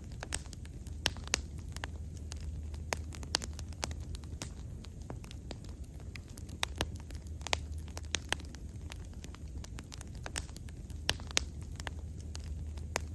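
Wood bonfire burning, with frequent sharp irregular crackles and pops over a low steady rumble of the flames.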